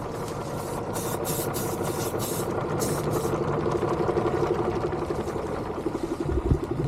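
Logging tractor's diesel engine running steadily while skidding logs, growing louder toward the middle. There is a sharp low thump shortly before the end.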